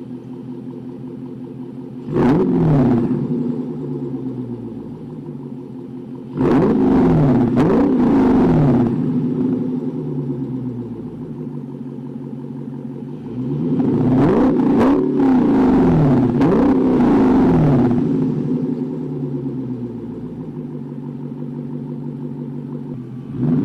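Dodge Charger Scat Pack's 6.4-litre HEMI V8 idling and being revved through an exhaust with Vibrant 1142 resonators in place of the mid mufflers, giving a deeper, louder tone. A short rev about two seconds in, then two longer runs of repeated revs rising and falling back to idle, and another quick rev at the end.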